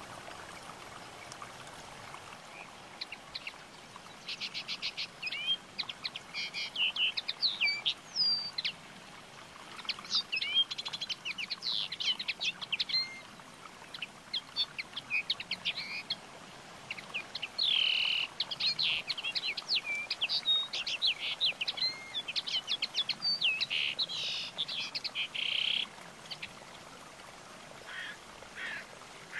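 Birds chirping: quick runs of short, high chirps and brief whistled sweeps, coming in bursts and pausing near the end.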